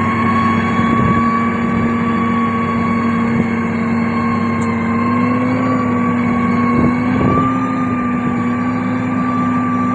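Diesel engine of a heavy road-construction machine running steadily under load. Its pitch rises slightly around the middle and settles back.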